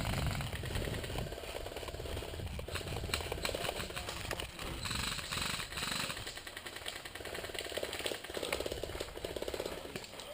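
Airsoft electric gun firing on full auto: several bursts of a second or two each, a fast, even rattling buzz.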